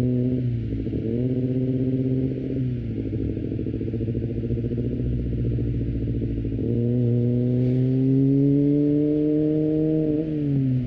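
Kawasaki ZX-25R's 250 cc inline-four with an Akrapovic exhaust, heard onboard while riding. The engine note holds fairly steady with a drop in pitch early on; about two-thirds in the throttle opens, the note gets louder and climbs slowly in pitch, then falls away near the end.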